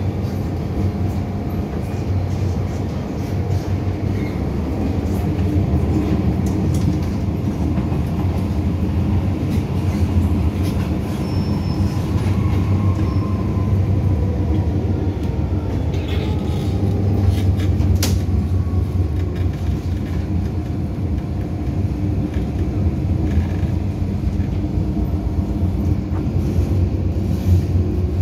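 Interior sound of an MTR M-Train electric metro car running: a steady low rumble of wheels and running gear. About midway a faint whine slowly falls in pitch, and there is a single sharp click later on.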